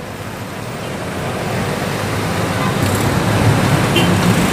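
A road vehicle approaching, its engine and road noise growing steadily louder.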